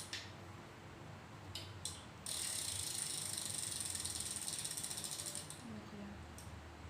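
A freshly painted wheel spun by hand, its hub giving off a fast, fine ratchet-like clicking for about three seconds, after a couple of short clicks as it is set turning.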